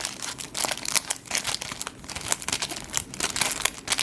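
Foil Yu-Gi-Oh! booster pack wrappers crinkling as they are handled and shuffled, in a run of irregular crackles.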